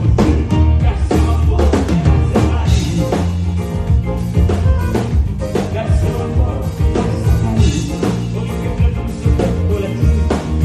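Live band playing a song on stage during a soundcheck, with a drum kit keeping a steady beat over a strong bass line.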